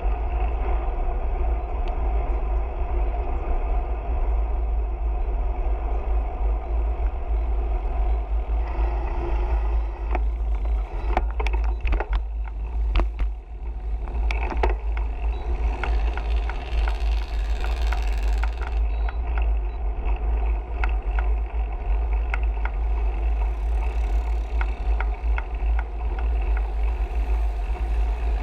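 Steady wind rumble on the microphone of a camera riding along on a moving bicycle, with road noise and scattered clicks and rattles.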